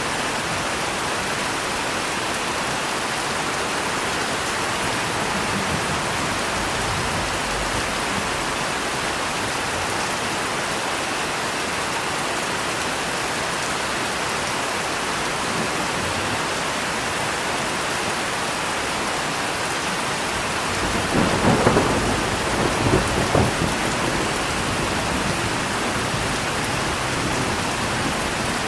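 Steady rain falling, with a rolling thunderclap about three-quarters of the way through that rumbles in a few peaks for around three seconds.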